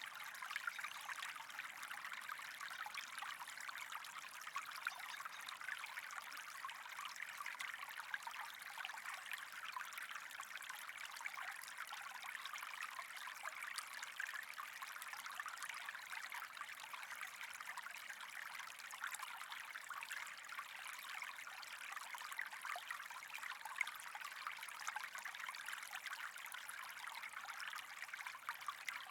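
Steady trickling, running water, an even hiss flecked with small splashes.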